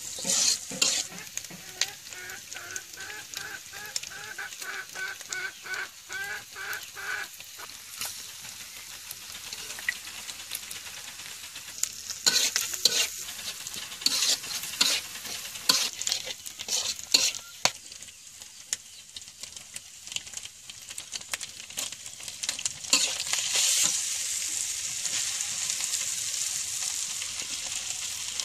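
Eggs frying and sizzling in hot oil in a metal wok, with a metal spatula stirring and scraping against the pan in repeated clicks and scrapes.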